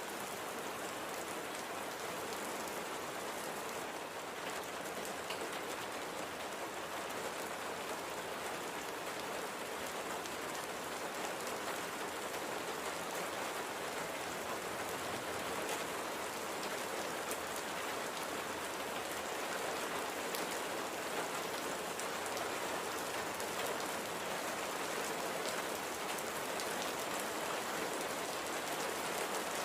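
Steady light rain falling, a constant hiss of rain with many small drop patters.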